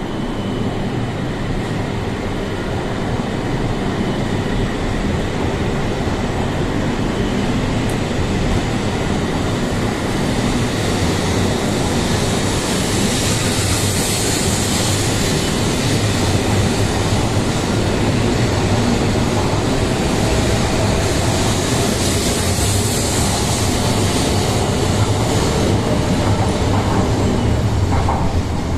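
E7 series Shinkansen train pulling out of the platform, its cars rolling past with a steady rumble and hiss that grows slightly louder as it gathers speed, with hiss swelling twice as cars pass.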